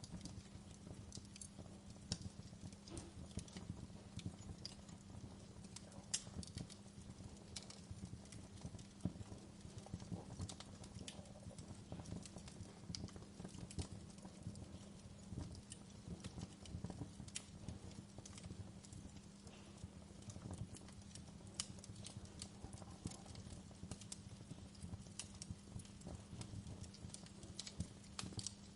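Campfire crackling: burning wood snapping and popping in irregular sharp clicks over a steady low rumble.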